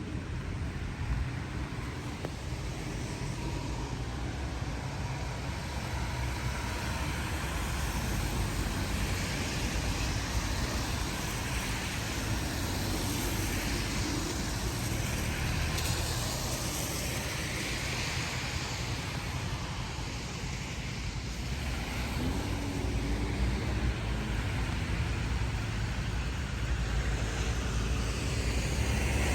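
Road traffic on a rain-wet street: cars passing one after another, their tyre hiss on the wet road swelling and fading.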